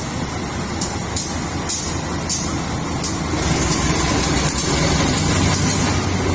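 Train running through a railway station: a steady rumble that grows heavier about halfway through, with short high hissing ticks repeating irregularly, one or two a second.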